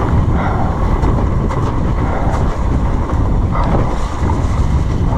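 Mountain bike riding fast down a slippery wet trail, heard on the rider's camera: steady wind buffeting on the microphone with tyre and bike rattle, and a few light knocks.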